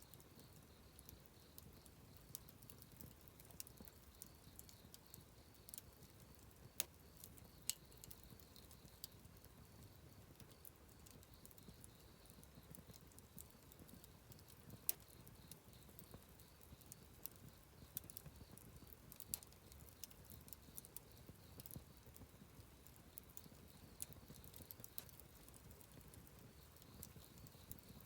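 Wood campfire crackling: irregular sharp snaps and pops over a faint low rustle of burning, with a few louder pops scattered through.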